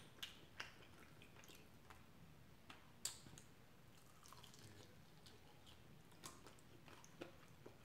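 Faint mouth sounds of a person chewing chicken wings: scattered soft, wet clicks, with one sharper click about three seconds in. The wings are not fried hard, so there is little crunch.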